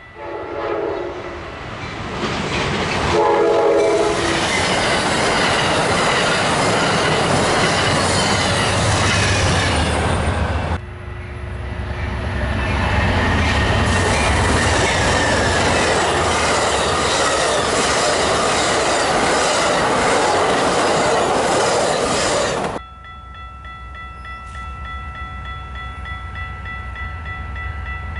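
A train horn sounds twice, then a diesel-led passenger train, an Amtrak P42DC locomotive hauling silver cars, passes close by with loud wheel and engine noise. The noise cuts off suddenly near the end, leaving a distant train's low rumble with a steady high tone over it.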